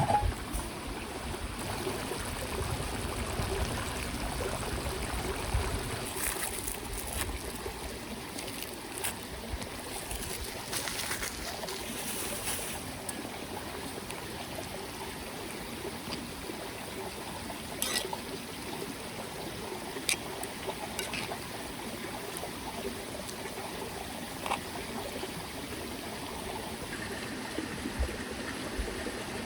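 A small mountain stream running steadily, with a low rumble during the first few seconds and a few short clicks over it later on.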